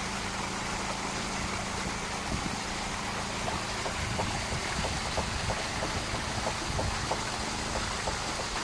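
A steady rushing noise with a faint low hum, and light ticks scattered through the middle.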